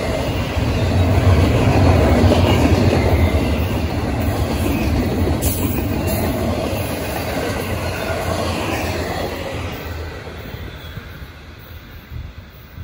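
The tail end of a Norfolk Southern intermodal freight train, double-stack well cars and trailer cars, rolling past with a steady low rumble of wheels on rail and faint wheel squeal. The rumble fades away about ten seconds in as the last car goes by.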